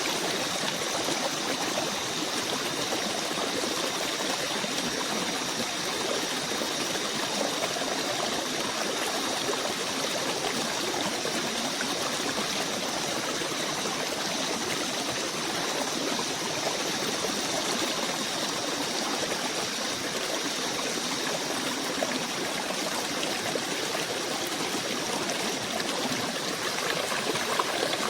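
A small stream running steadily, a continuous trickling wash of water, with two faint steady high tones above it.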